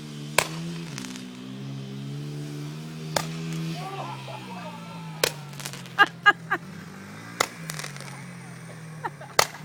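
Dirt bike engine running steadily, its pitch wavering slightly, while about nine sharp pops of firework rockets bursting crack out, one early, a cluster in the middle and two near the end.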